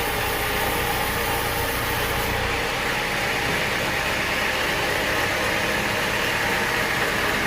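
Sawmill machinery running steadily, an engine-like drone with hiss. About two and a half seconds in, the deep hum and the highest hiss drop away and the running goes on steadily.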